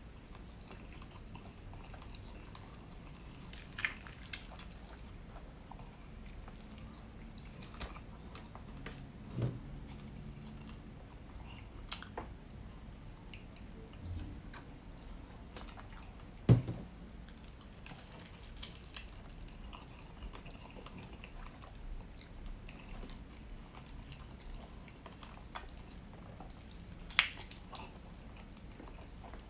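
Close-miked eating of rotisserie chicken with honey: wet chewing and biting mouth sounds with scattered sharp clicks and smacks, the loudest about halfway through and another near the end.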